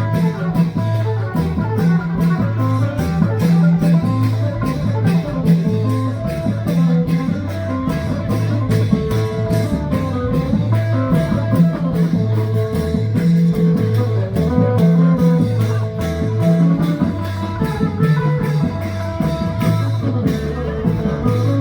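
Loud band music: a plucked-string melody over a steady, repeating bass line and drum beat.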